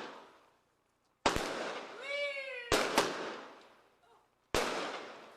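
Fireworks going off: about five sharp bangs, two of them close doubles, each trailing off in an echo. Between them a short, high-pitched cry rises and falls.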